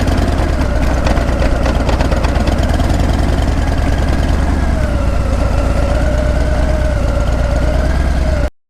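Harley-Davidson Breakout's V-twin exhaust running steadily with a low rumble, its pitch dipping slightly about five seconds in. The sound cuts off abruptly near the end.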